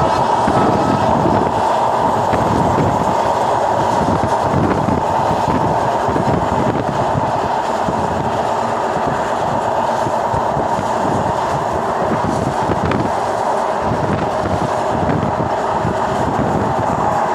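Passenger train running at speed, heard from inside the carriage: a steady rumble of wheels on the rails under a constant running hum.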